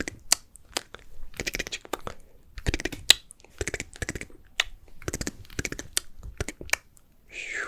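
Close-miked ASMR mouth sounds: quick, irregular wet clicks, tongue pops and lip smacks, a few each second. Near the end a longer breathy hiss begins.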